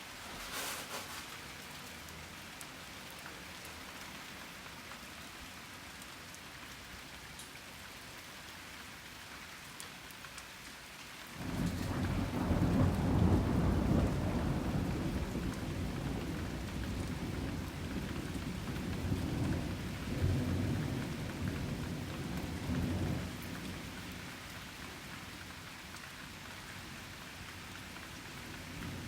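Steady rain falling, then about halfway through a clap of thunder breaks in suddenly and rolls on as a deep rumble for roughly ten seconds, swelling twice before it fades back to the rain.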